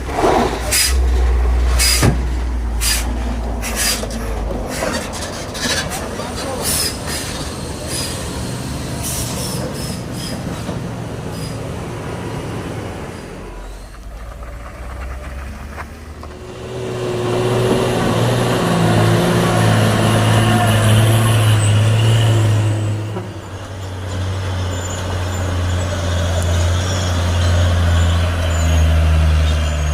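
Heavy diesel trailer trucks on a steep downhill, with air brakes letting off a quick series of sharp hisses during the first third. From about halfway, loud low diesel engine drone from trucks passing close, dipping briefly and then building again near the end.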